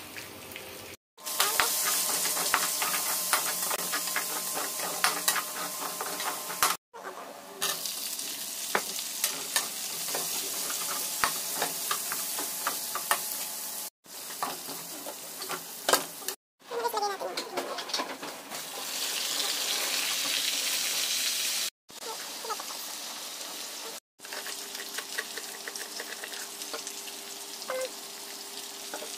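Oil sizzling as sliced onion, garlic and chicken wings fry in a pan, with a slotted metal spatula scraping and clicking against the pan as they are stirred. The sound drops out briefly several times.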